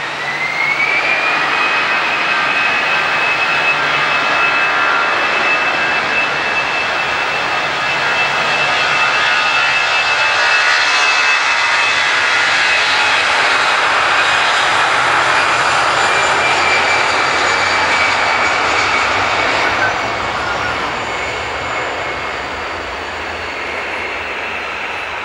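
Airbus A320 jet engines at takeoff thrust: a loud rush of jet noise with a high whine that rises in pitch in the first second or two, then holds steady. The level eases slightly after about twenty seconds.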